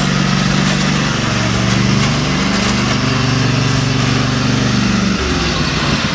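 Small tractor engine running steadily as it tows a wagon. The engine pitch shifts up a little after a second or two and drops about five seconds in.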